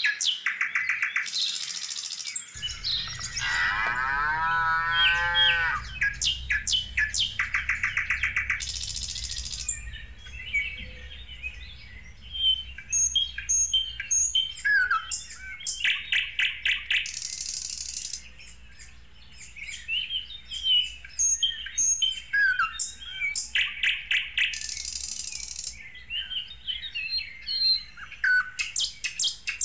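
Birds chirping and calling, with a rapid trilling call that comes back every several seconds and a falling whistled call about three seconds in. A low steady hum sets in after about two and a half seconds.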